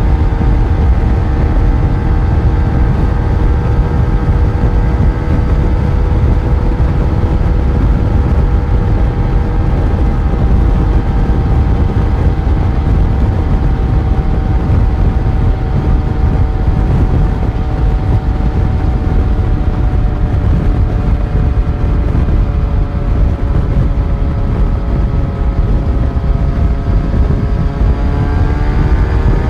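Yamaha FZ1's inline-four engine heard on the move, holding a steady drone whose revs sag slowly as the bike coasts, then rising sharply near the end as the throttle opens. A dense low rush of noise runs underneath.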